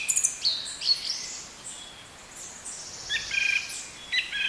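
Songbirds singing: bursts of high chirping and warbled phrases, busy at first, thinning about a second and a half in, then picking up again near the end over a faint outdoor hiss.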